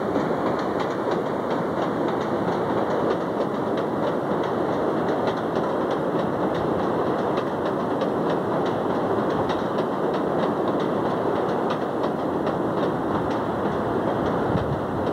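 CTA elevated 'L' train of stainless-steel cars running along the elevated track beside the platform: a steady noise of wheels on rail with a quick, uneven run of clicks over the rail joints.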